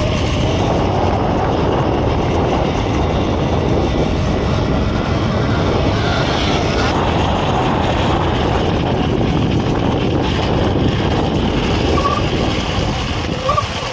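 Steady wind rushing over the microphone of a moving dirt bike, with a faint whine that glides up in pitch near the start and again near the end.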